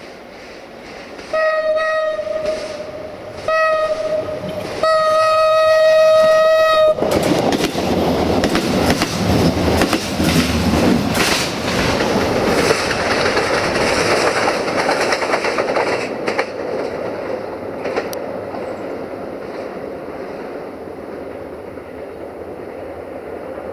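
A train's horn sounds three times on one steady note: two short blasts, then a longer third. The train then passes close by, rumbling, with wheels clicking over the rail joints, and fades slowly away.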